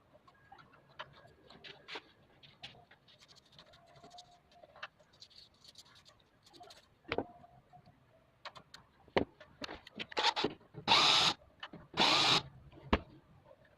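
Work noises from handling parts: scattered light clicks and taps and a sharper knock, then two short harsh rushing noises about a second apart near the end.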